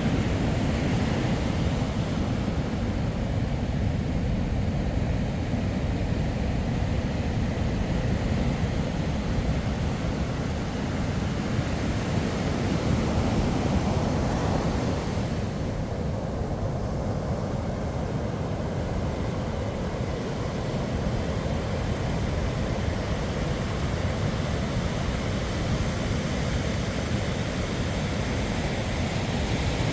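Steady rumbling wash of wind and surf on a beach at night, heavy in the low end, with slow small swells in loudness.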